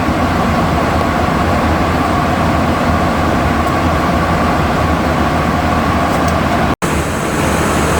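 Steady flight-deck noise of a Boeing 737NG in flight: a constant rush of airflow and air-conditioning with a faint steady hum. It drops out for an instant about two-thirds of the way through, then carries on slightly quieter.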